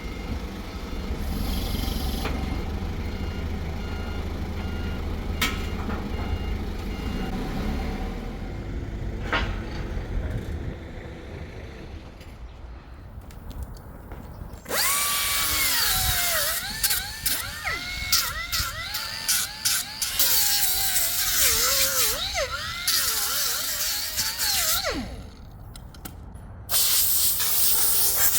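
An engine runs with a low rumble, with a few sharp clicks. About halfway through, a loud hiss of air with wavering whistling tones starts, stops briefly near the end, then starts again.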